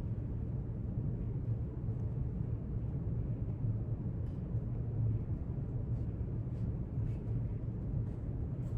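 Steady low rumble of a library's room ambience, with a few faint soft ticks over it.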